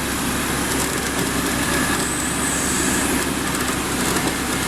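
An off-road 4x4's engine runs steadily under a continuous rumble and hiss, with no sudden knocks or revs.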